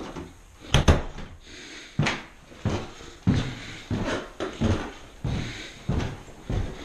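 Footsteps crunching in snow, a steady walking rhythm of short crunches, about one and a half a second.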